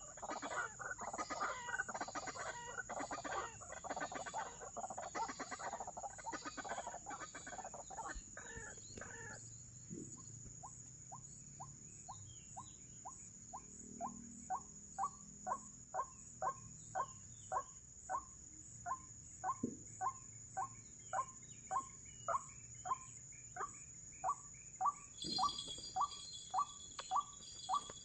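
White-breasted waterhen calls: a dense burst of rapid, raucous calling, then from about ten seconds in a monotonous series of single 'kwak' notes at about two a second, growing louder toward the end. A steady high-pitched whine runs underneath.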